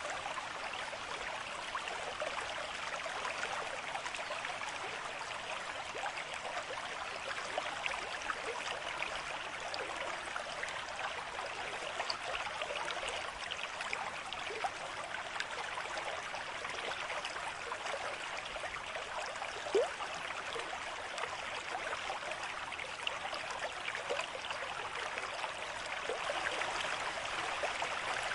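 Water of a small stream running and babbling steadily, with one slightly louder gurgle about twenty seconds in.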